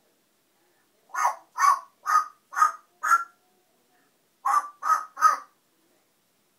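Pet African parrot giving loud, harsh, caw-like squawks: five in a row about two a second, a short pause, then three more in quicker succession.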